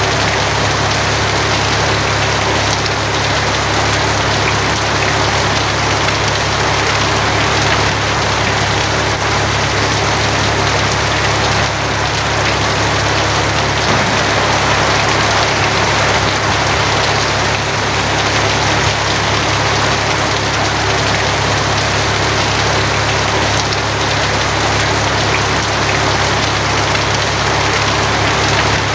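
Steady rain on a tin roof, an even hiss with no separate drops or thunderclaps standing out, over a constant low rumble.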